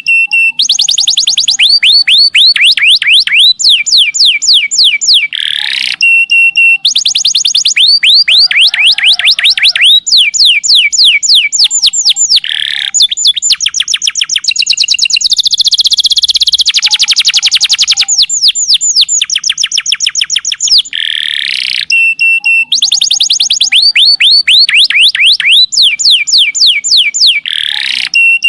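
Domestic canary singing long, rapid trills of repeated falling high notes, about ten a second. The phrases are broken by short held whistles, with a harsh buzzy rattle about midway.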